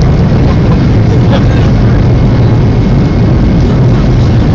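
Boeing 757-300's jet engines at takeoff power heard from inside the passenger cabin: a loud, steady noise with a strong low hum underneath.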